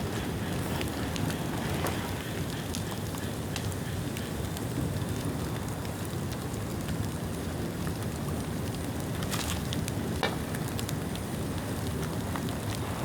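Bonfire of rain-damp bamboo burning: a steady rushing hiss of flame with scattered sharp crackles and pops, a few louder snaps about nine to ten seconds in.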